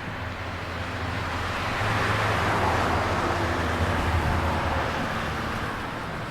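Boeing 757 jet engines running as the airliner taxis past, swelling to a peak a couple of seconds in and then fading.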